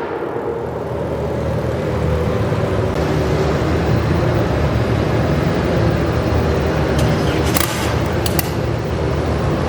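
Loud, steady low rumble of a garden pulling tractor's engine running, with a few sharp clicks about three-quarters of the way through.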